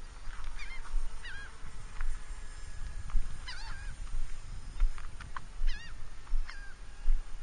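Birds calling outdoors: short hooked calls in small clusters, five or six times, over a low wind rumble on the microphone.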